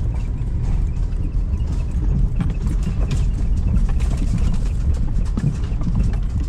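Vehicle driving on a rough unsealed road: a steady low rumble with frequent irregular knocks and rattles.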